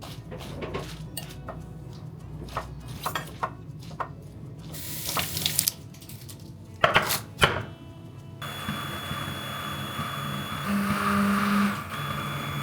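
Dishes and cutlery clinking and knocking on a kitchen counter, a scatter of sharp clicks with a few louder clatters about seven seconds in. After about eight seconds a steady hum with a faint high whine starts.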